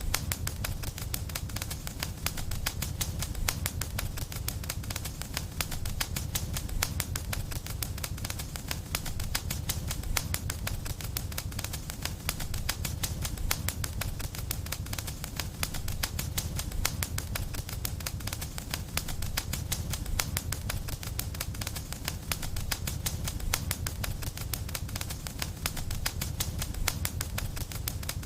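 Wood fire crackling without a break: a dense stream of small rapid pops and snaps over a steady low rumble of the flames.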